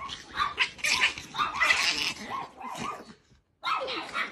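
A dog barking and yipping in a run of short bursts, cutting out briefly about three seconds in.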